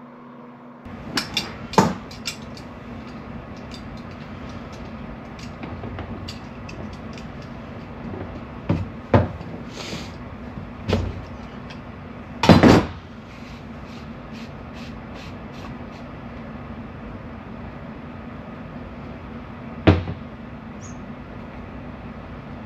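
Scattered knocks and small clicks of the parts of a Hudson float valve being handled and taken apart, over a steady low hum. The loudest knocks come in a cluster about a second in, several between 9 and 13 seconds in, and one more near the end.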